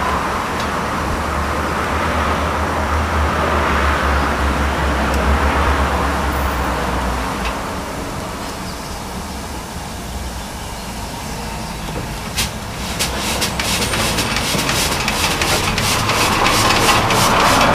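Unrestored 1914 Garrett 4CD steam road tractor's engine running on compressed air instead of steam, with a steady rushing sound and mechanical clatter. A fast, regular beat of sharp clicks sets in about two-thirds of the way through.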